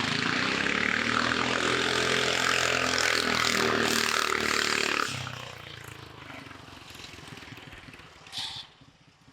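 A go-kart's 420cc Predator single-cylinder engine, its governor removed, runs flat out with its pitch rising as the kart accelerates off the line. About five seconds in the throttle is cut, and the engine sound drops sharply and fades away.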